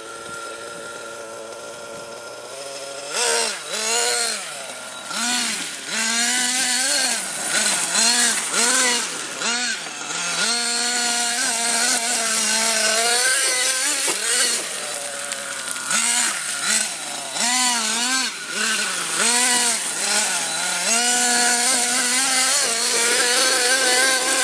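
Remote-control car's electric motor whining, throttled up and down over and over so the pitch keeps rising and falling, sometimes held at a steady whine for a few seconds.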